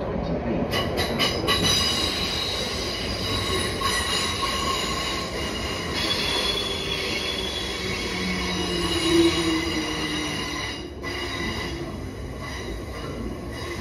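South Western Railway Class 455 electric train running into the platform and braking, its wheels and brakes squealing in several high steady tones over the rumble of the train. The squeal dies away about eleven seconds in as the train comes to a stand.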